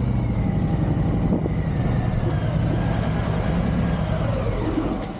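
Harley-Davidson Sport Glide motorcycle engine running steadily on the ride, dropping in level near the end.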